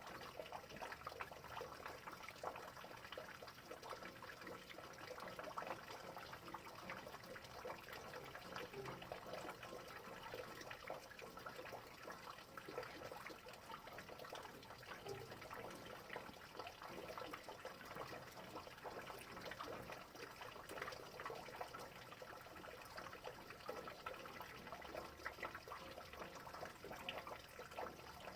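Rain falling steadily, a dense patter of many small drop ticks.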